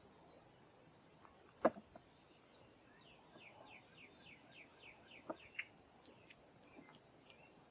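Small songbird calling: a rapid series of about ten short falling chirps, with a few high chips near the end. A single sharp tap about a second and a half in is the loudest sound.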